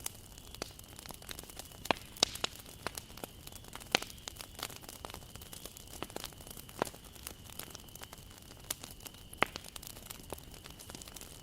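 Wood bonfire burning, crackling with irregular sharp pops of varied loudness over a low steady hiss.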